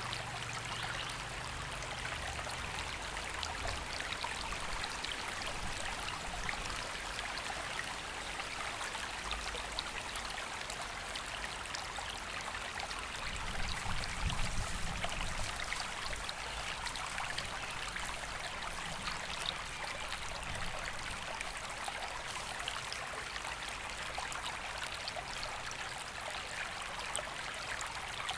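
River water flowing steadily over stones, a continuous rushing and trickling. About halfway through it briefly grows louder, with a low rumble.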